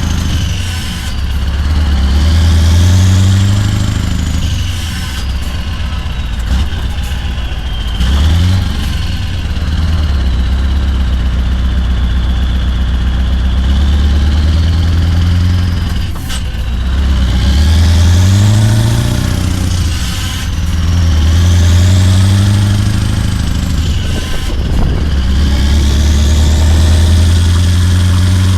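Scania R580 16-litre V8 diesel with a straight-piped 8-inch exhaust running loud under load, its deep note dropping and climbing again in pitch several times. A high whistle rises and falls with the engine.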